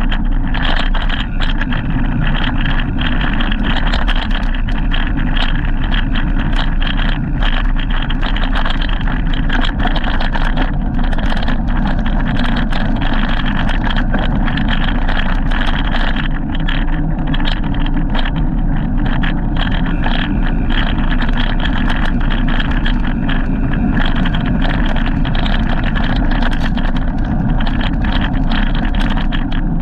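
Steady rushing noise of riding a bike, heaviest in the low end, with frequent rattles and knocks throughout.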